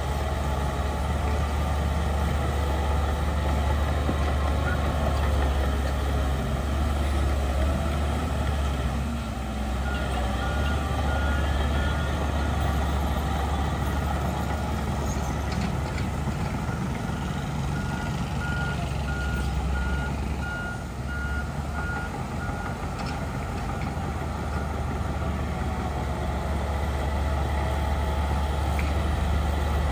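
Heavy diesel engine of earthmoving machinery running steadily under load. A reversing alarm beeps about twice a second, once briefly about ten seconds in and again for several seconds later on.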